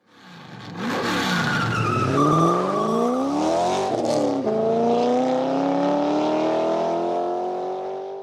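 Car engine accelerating hard, its pitch climbing, shifting up a gear about four and a half seconds in and climbing again before cutting off.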